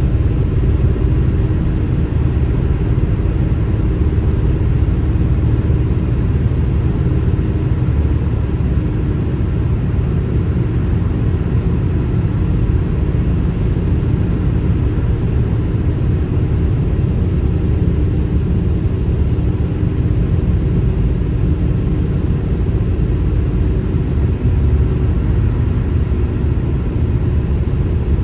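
Car driving at highway speed: a steady low rumble of road and engine noise with no changes.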